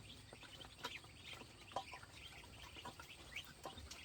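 Faint, scattered short bird chirps over low background noise, with a few light knocks.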